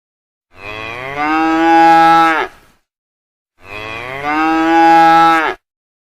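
A cow mooing: two long, identical calls, the second about three seconds after the first.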